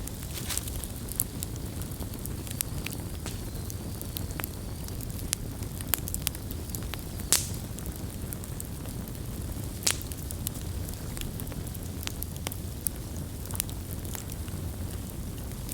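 Campfire burning with a steady low roar and irregular sharp crackles and pops of burning wood, two louder pops about seven and ten seconds in.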